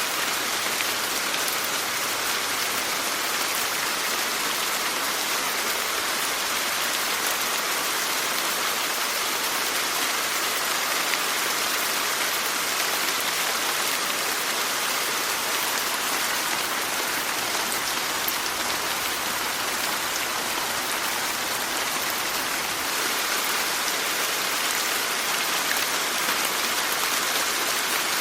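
Steady rain falling, an even hiss of many drops striking a surface, with no pauses or changes in strength.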